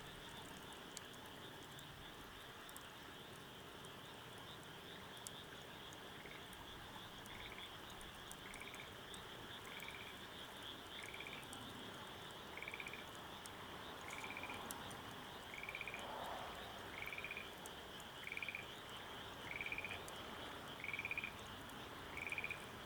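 A frog calling a short trilled croak about once every second, starting about six seconds in and growing louder, over a steady high-pitched insect chorus. Faint scattered ticks run underneath.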